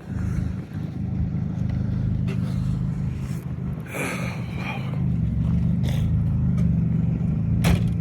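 Vehicle engine idling steadily, with a few short sharp knocks about four, six and eight seconds in.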